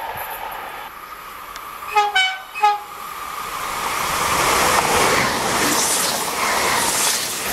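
Two coupled AGC multiple units (BGC 81500 series) give three short horn blasts about two seconds in. Then the train's running noise, wheels on rail, swells as it passes close by.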